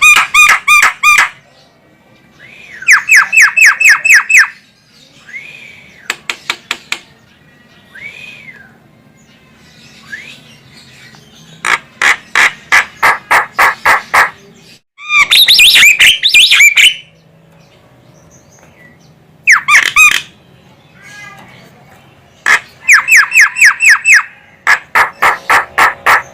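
Javan myna giving harsh, rapid chattering calls: about eight bouts of fast repeated notes, each lasting one to two seconds, with a few short single notes in the pauses between.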